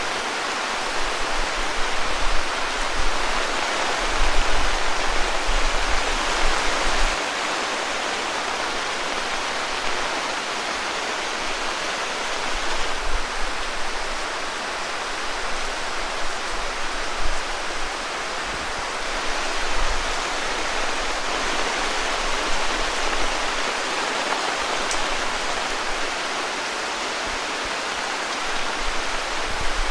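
Heavy monsoon rain falling steadily, a dense, even hiss. Low rumbles come and go underneath, most in the first seven seconds.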